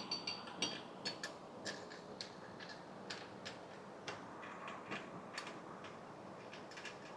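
Light, irregular metallic clicks and clinks of hand tools and hardware as nuts and bolts are worked on a truck's rear axle flange, a few per second with a brief high ring on some, thickest in the first couple of seconds.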